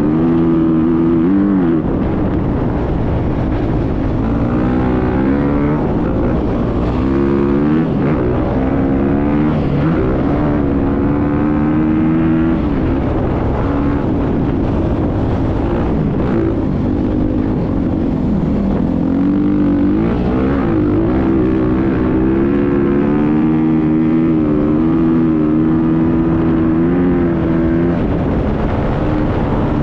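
Motocross bike engine running under load, its pitch climbing and falling again and again as the throttle is worked, with several sudden drops in pitch.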